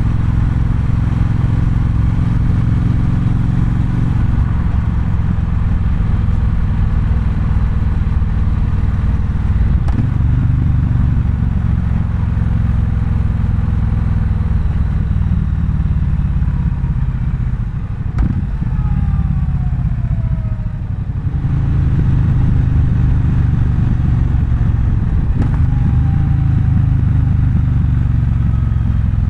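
Triumph Bonneville Bobber's 1200 cc parallel-twin engine running under way. The revs ease off a few seconds in, drop to a quieter low around two-thirds of the way through, then pick up again.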